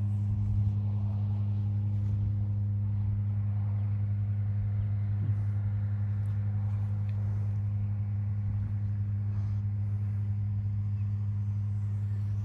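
A steady low hum with a fainter overtone an octave above, unchanging in pitch and level throughout.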